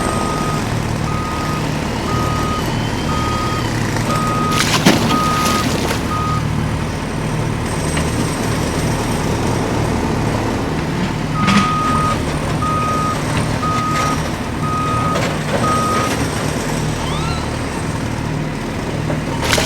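A truck engine running steadily, with a reversing alarm beeping about twice a second in two runs: one from the start to about six seconds in, the other from about eleven to sixteen seconds in. A few sharp knocks come in between, the loudest about five seconds in.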